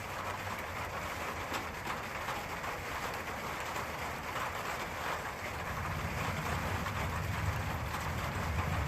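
Steady rain hiss with a faint patter of drops. About halfway through, a low rumble of thunder swells and keeps rolling.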